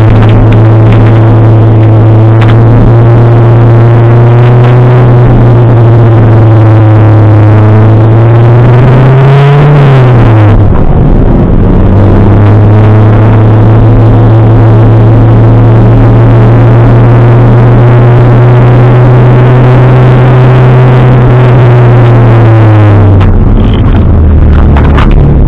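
Toyota Celica ST185 rally car's turbocharged four-cylinder engine, loud from inside the caged cabin and held at steady revs for long stretches. About nine seconds in the revs climb, then break off and fall. The note settles steady again and drops near the end.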